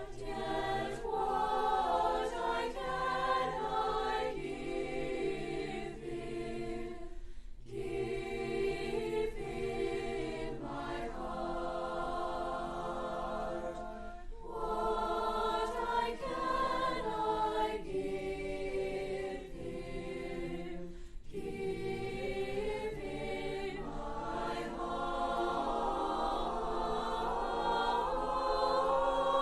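A choir singing in sustained phrases, with a short break between phrases about every seven seconds.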